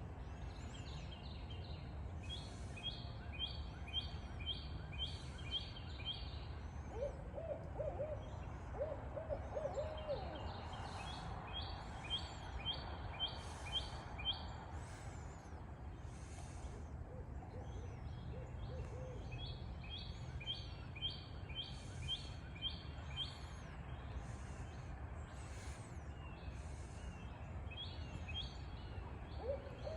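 Barred owls hooting in short runs of quick hoots, a few times with pauses between. Series of rapid, high, evenly repeated chirping notes from another animal repeat throughout over a low background rumble.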